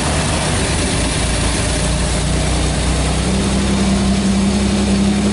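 A 1986 Pontiac Firebird's fuel-injected 2.8-litre V6 idling steadily just after being started. A steady low drone joins about three seconds in.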